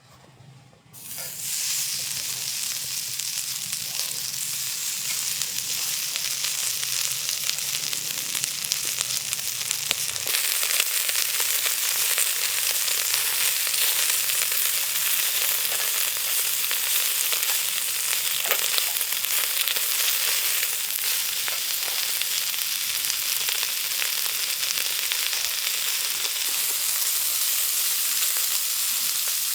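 Food sizzling as it fries on hot metal. The sizzle starts suddenly about a second in and gets louder at about ten seconds, as if more food went on.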